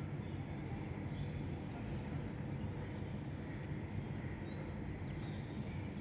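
Steady low rumble of background noise with a few faint, short, high cockatiel chirps over it.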